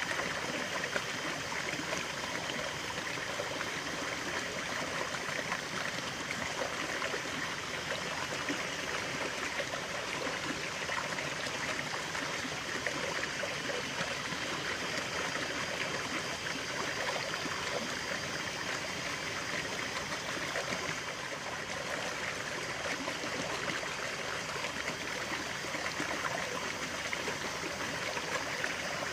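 A stream of running water flowing and trickling steadily over stones, a continuous even rush.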